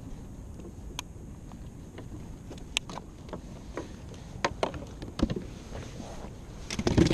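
Kayak on the water: scattered small knocks and clicks against the hull over a low steady wash, with a louder cluster of knocks near the end.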